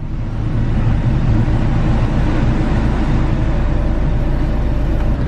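Car air-conditioning blower fan running on a high setting, a steady rush of air, over the low hum of the Prince Pearl's 796cc engine idling.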